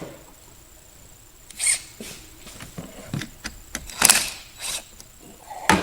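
Irregular metallic clicks and scrapes of a hand wrench working the 10 mm nut on a car battery's negative terminal clamp, loosening it to disconnect the battery; the loudest clank comes about four seconds in.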